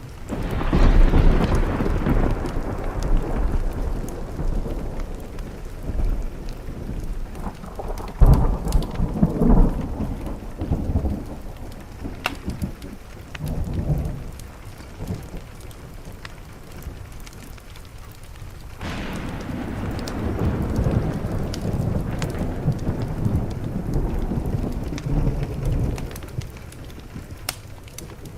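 Thunder rolling over steady rain. A long peal breaks at the start and fades, a sharper clap comes about eight seconds in, and a second long rumble builds about two-thirds of the way through and dies away. Small sharp ticks are scattered over the rain throughout.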